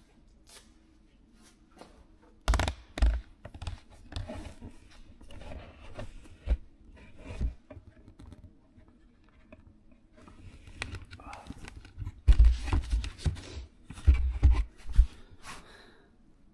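Irregular knocks, heavy thumps and scraping rustles, starting a couple of seconds in and busiest near the end, like things being handled close to the microphone.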